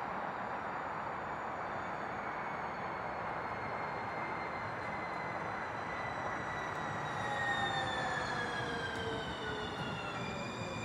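Electric light-rail trolley train running on the rails, with a whine from its electric drive that slides down in pitch and grows loudest about eight seconds in.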